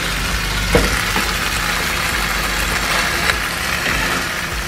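Chicken pieces sizzling as they sear in a hot pan, with metal tongs clicking against the pan a few times, over a steady low hum.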